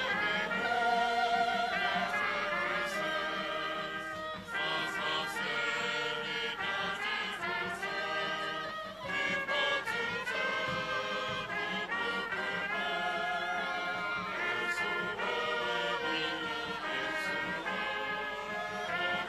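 Choral music with brass instruments, the voices singing held notes that change in steps.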